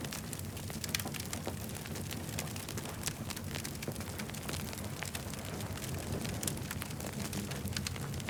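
Campfire burning, crackling with many quick sharp pops over a steady low rumble.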